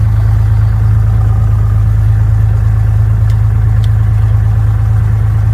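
Cessna 172's piston engine idling steadily after start, an even low drone with a regular pulse.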